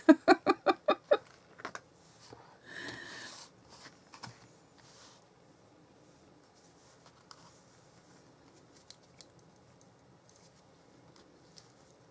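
A woman's short burst of laughter, about six quick pitched pulses, then a soft swish and faint taps and rustles of paper card being handled while gluing pieces of a card together.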